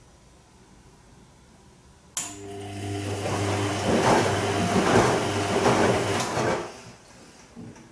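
Bosch Serie 2 VarioPerfect washing machine on its Silk program: the drum motor starts abruptly about two seconds in and turns the drum for about four and a half seconds with a steady hum and a swishing wash, then stops.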